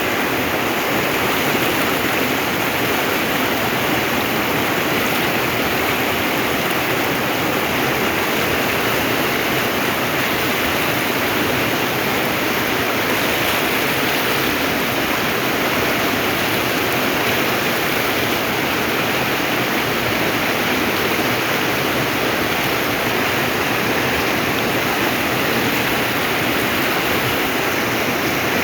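Waterfall water rushing steadily, a constant dense roar of falling water.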